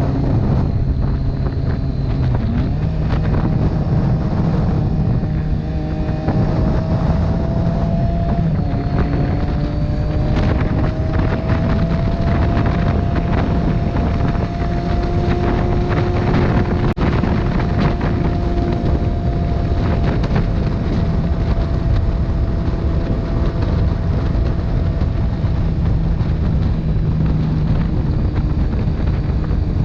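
Motorcycle engine running at road speed under heavy wind noise on the microphone. The engine note shifts a few times in the first ten seconds, then holds mostly steady.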